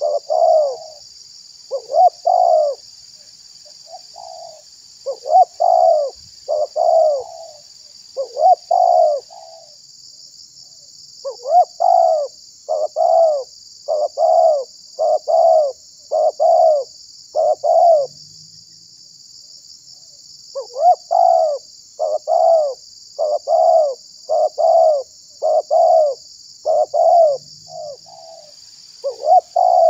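Spotted dove (tekukur) cooing: runs of arched coo notes in quick succession, broken by pauses of a second or two. A steady high hiss runs underneath.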